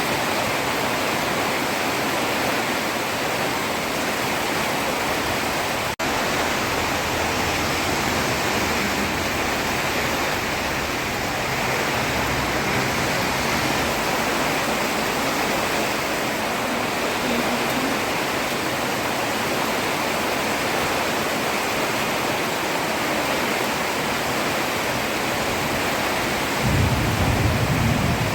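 Heavy rain falling steadily on a road, an even hiss, with a split-second dropout about six seconds in and a brief low rumble near the end.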